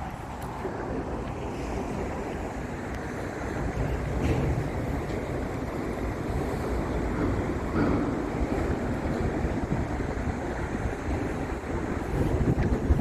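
Wind buffeting the microphone of a camera on a moving bicycle: a steady rush of wind noise, heaviest in the low end, swelling and easing slightly.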